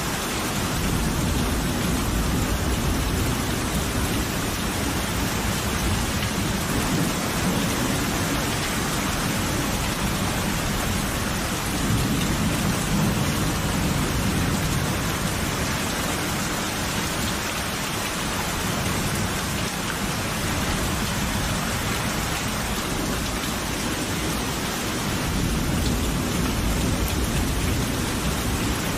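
Steady heavy rain falling, with low rolling thunder rumbling underneath in slow swells, strongest around a dozen seconds in and again near the end.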